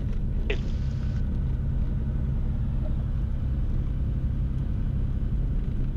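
Steady low rumble of a Beechcraft Bonanza's piston engine at low power, heard inside the cabin as the plane rolls out after landing on an ice runway.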